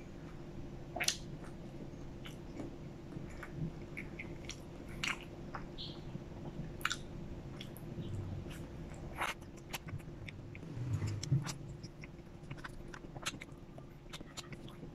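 Close-miked chewing and biting of a BBQ beef burger: wet mouth clicks and smacks scattered throughout, over a faint steady hum.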